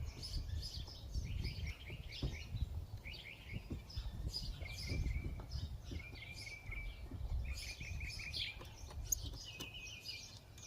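Small birds chirping and trilling over and over, with a low rumble underneath and a few faint clicks.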